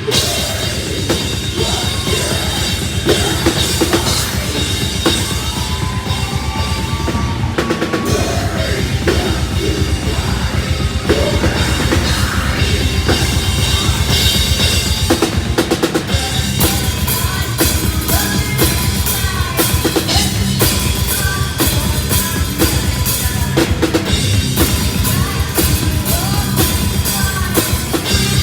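Live metal band playing loud, driven by heavy drum kit and bass drum; the drumming turns faster and more regular about halfway through.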